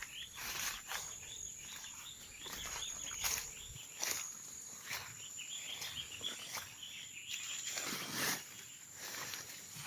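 A steady high-pitched insect trill, with two flurries of small rapid chirps and scattered footsteps and rustling.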